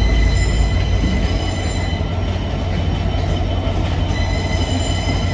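GB Railfreight Class 66 diesel-electric locomotive hauling hopper wagons slowly through a station, its engine giving a steady deep rumble. Over it sits a steady high-pitched squeal from wheels on the curved track.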